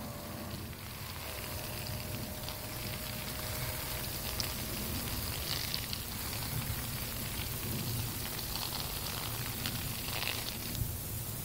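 VW Golf IV's stainless-steel duplex exhaust with the engine idling: a steady low rumble with light ticking.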